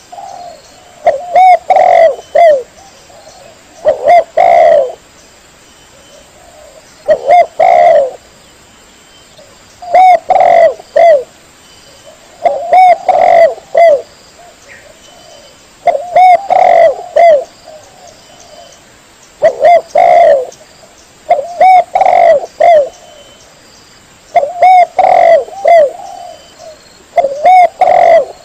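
Spotted dove (tekukur) cooing: a loud phrase of several short coos repeated about every three seconds, with quiet gaps between phrases.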